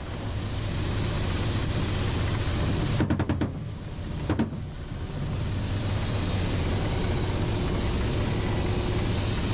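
Steady helicopter engine and rotor noise heard from inside the cabin, with a quick cluster of sharp clicks about three seconds in and another sharp click about a second later.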